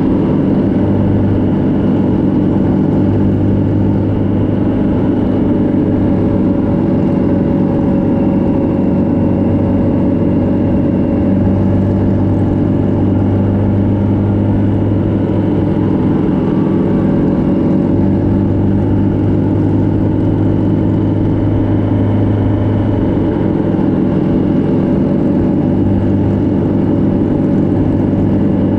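Motorcycle engine running steadily at cruising speed, its pitch rising and falling slightly as the throttle changes.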